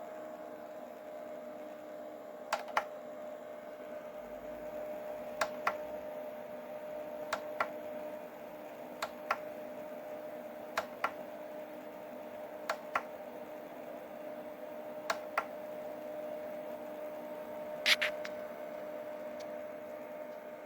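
Small fan motor of a portable USB evaporative air cooler running with a steady hum, crossed about every two seconds by a pair of sharp clicks, eight pairs in all, the loudest near the end.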